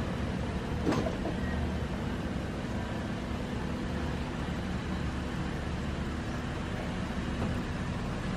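Steady low rumble of vehicle noise, with a single sharp tap about a second in.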